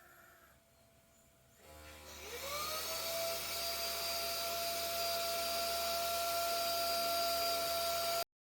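SMDEE D2 bedding vacuum cleaner switching on: its motor spins up with a rising whine, then runs steadily with a high whine over a rushing hiss, and stops abruptly near the end.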